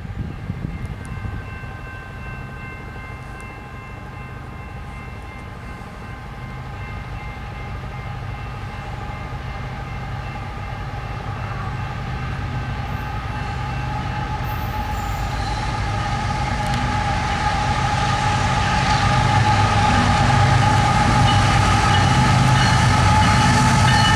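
BNSF freight train of tank cars approaching behind its diesel locomotives, the engines' rumble growing steadily louder as they draw near. Several steady high tones run through it and also grow louder.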